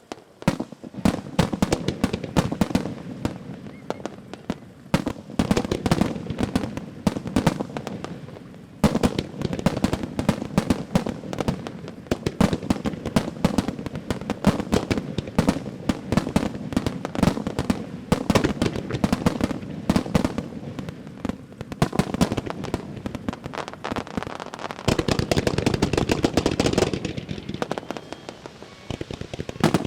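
Star mine fireworks barrage: shells launching and bursting in rapid succession, many bangs a second with crackling, growing denser and louder near the end.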